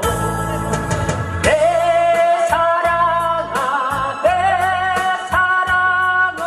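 A singer holding long sung notes with vibrato over a band backing track with a steady drum beat, in a Korean ballad.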